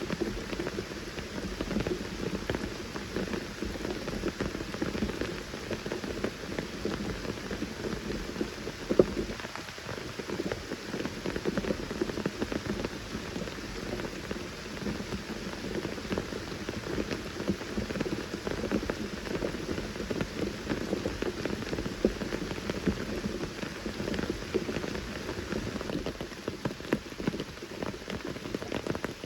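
Steady rain falling in a forest, a dense run of individual drops hitting the ground and leaves. About nine seconds in there is one sharp, louder knock, perhaps a heavy drop.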